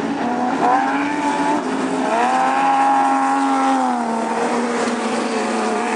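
Super Stocker race cars' engines running hard on a speedway oval. One engine note climbs about two seconds in, holds, then drops away about two seconds later as a car goes past.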